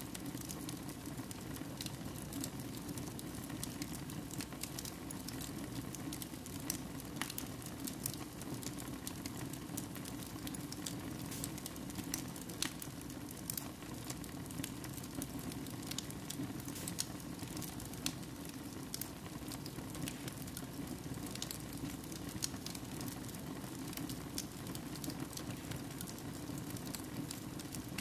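Fire burning in a fireplace: a steady low rush of flames with frequent sharp crackles and pops.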